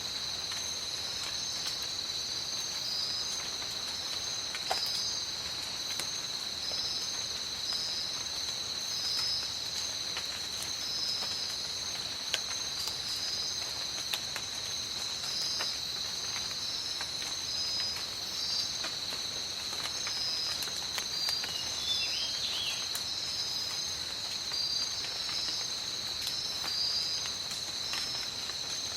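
Tropical rainforest rain: a steady rain hiss with scattered drip ticks, under a continuous high-pitched insect chorus that chirps in a repeating pattern. A brief chirp sounds about three-quarters of the way through.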